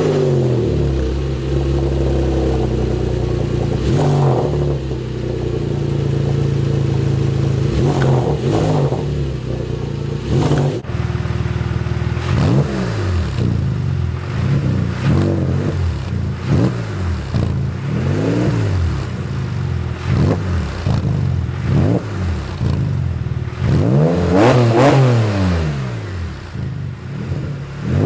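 Porsche 997 Carrera flat-six breathing through aftermarket mufflers and sport cats, idling steadily for about ten seconds with a couple of light blips, then revved in a string of short throttle blips, the note rising and falling each time, with a bigger rev near the end.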